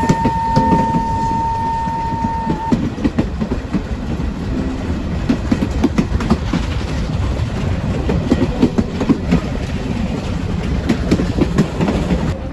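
Baie de Somme heritage train running along the track, its carriages rumbling with irregular clattering knocks over the rails. A single held high tone sounds through the first few seconds and then stops.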